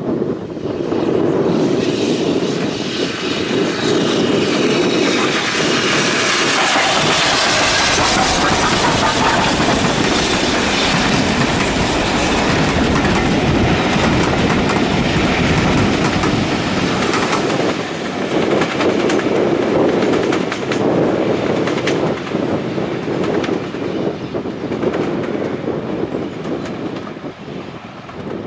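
A train passing close by on the line: the noise rises quickly about a second in, stays loud through the middle, then eases off, with a run of sharp clicks from the wheels going over rail joints in the later part.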